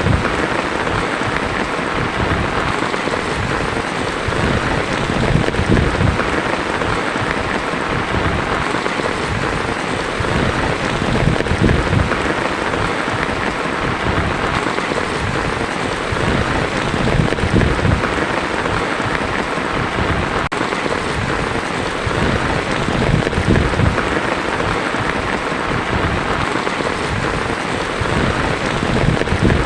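Heavy rain drumming on a tin roof in a steady, dense patter, with low rumbles swelling up about every five or six seconds.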